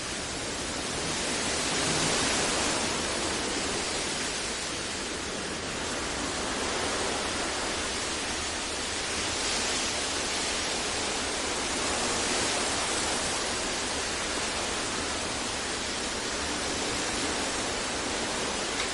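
Steady synthetic deep noise for masking: an even, featureless hiss that gently swells and eases in loudness every several seconds.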